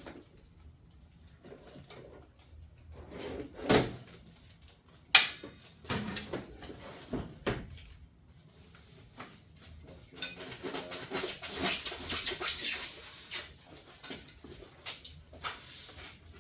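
Scattered knocks and clunks of parts and packaging being handled while searching through them, the sharpest about four and five seconds in, with a stretch of rustling in the second half.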